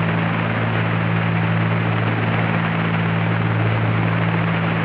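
Steady drone of a twin-engine Cessna 310Q's piston engines in cruise, heard inside the cabin through the cockpit audio feed as a low hum with an even hiss over it.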